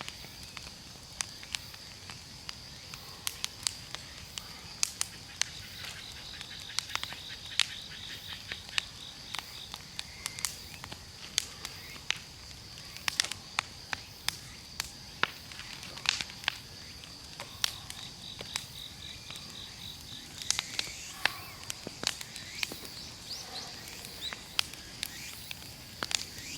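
Large wood bonfire crackling, with many sharp, irregular pops and snaps from the burning firewood.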